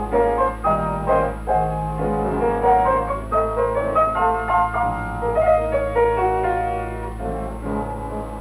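Piano film score playing a quick run of separate notes over a steady low hum.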